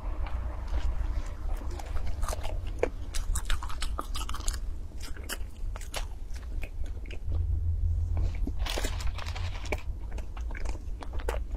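Close-miked mouth sounds of a person biting and chewing food, with many short crisp crunching clicks and wet smacks, over a steady low hum.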